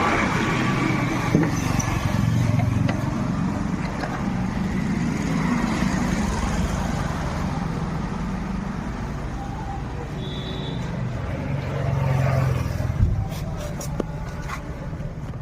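A motor vehicle engine running, its sound rising and falling, with a few sharp clicks near the end.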